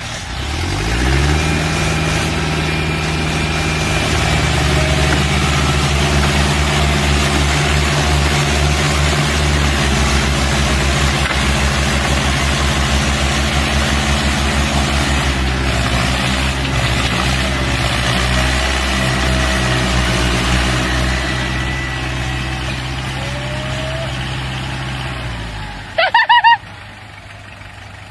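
Large diesel engine of heavy machinery revving up, then running at steady revs before dying away near the end. A brief, loud, high-pitched squeal follows.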